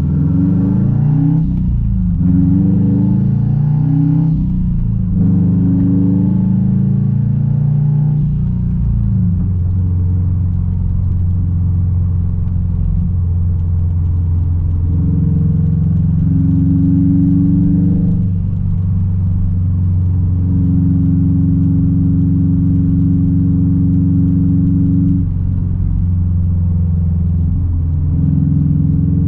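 Straight-piped 2006 Subaru WRX STI's turbocharged 2.5-litre flat-four running. The revs climb and drop three times in the first several seconds, as on upshifts. After that it holds a steady drone at constant revs.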